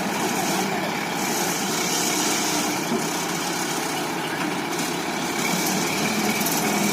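Heavy vehicle's engine running steadily, a continuous even drone.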